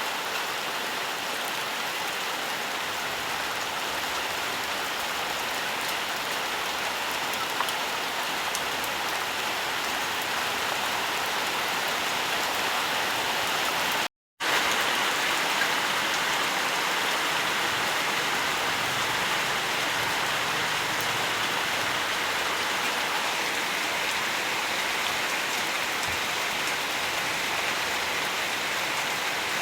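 Steady forest rainfall, an even hiss of rain on surfaces. It cuts out to silence for a split second about halfway through.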